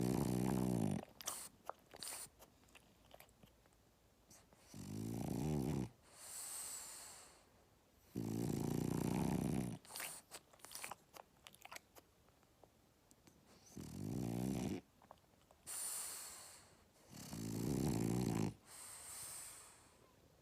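A dog snoring close to the ear: five loud, rattling snores, each about a second long, most followed by a softer breathy hiss, with faint clicks in the pauses between.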